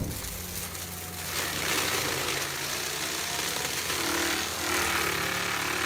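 Engine-driven forestry machinery running steadily under load, a constant mechanical din with a low engine hum beneath it.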